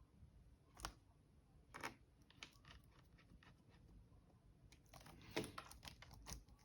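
Faint, scattered clicks of laptop keyboard keys being pressed: a couple of single clicks, then a quicker run in the second half.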